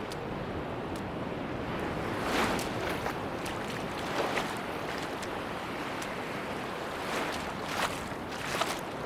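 Sea waves washing onto a beach: a steady rushing wash that swells now and then, with irregular short crackles.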